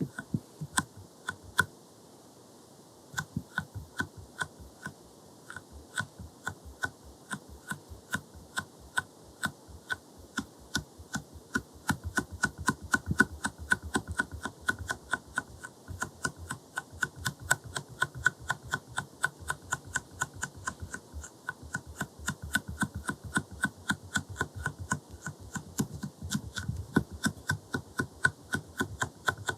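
Silicone jelly stamper tapped repeatedly against the lens, a run of short taps about four a second. The taps are sparse for the first few seconds and grow fuller and heavier from about twelve seconds in.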